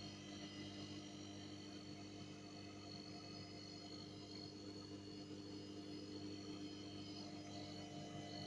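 Faint, steady low hum with a thin high-pitched whine above it, unchanging throughout.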